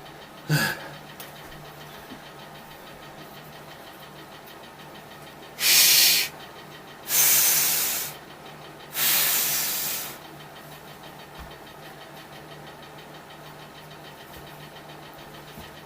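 Three short bursts of hissing from a pressurised nozzle, each about a second long, the second and third tapering off as they end. A brief sharp sound comes about half a second in.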